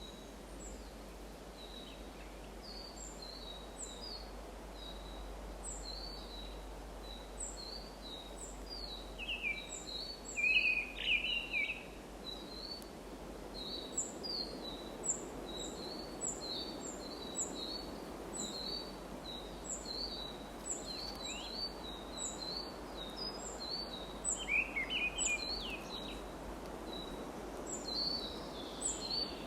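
Birds calling in a forest: a steady run of short, high chirps repeating throughout, with louder, lower bird calls breaking in about ten seconds in and again near the end, over a soft background hush.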